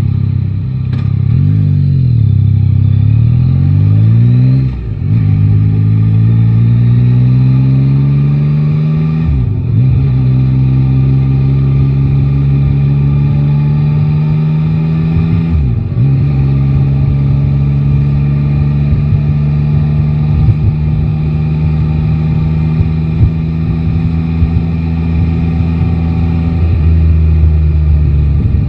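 Yamaha Tracer 9 GT's inline three-cylinder engine pulling through the gears. The pitch climbs, drops sharply at each upshift about 5, 9.5 and 16 seconds in, then holds nearly steady while cruising.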